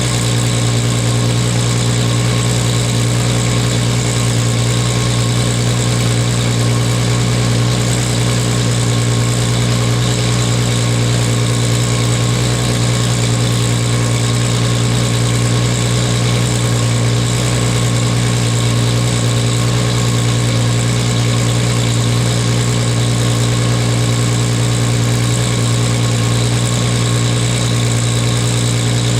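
1998 Toyota Supra Turbo's 2JZ-GTE inline-six idling steadily through an HKS titanium racing exhaust fitted with its silencer, with a deep, even exhaust note.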